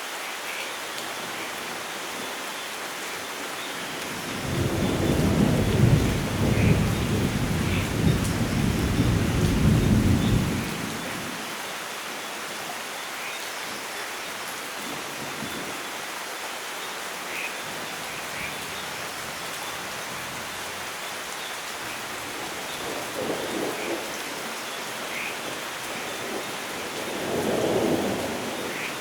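Steady rain with scattered drips, and thunder rolling in low and long about four seconds in, lasting some six seconds, followed by two shorter, fainter rumbles near the end.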